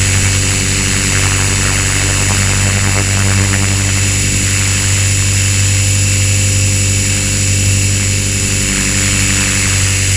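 Walkera V450D01 electric RC helicopter in flight, its motor and rotors running at a steady pitch with a high whine over a low drone.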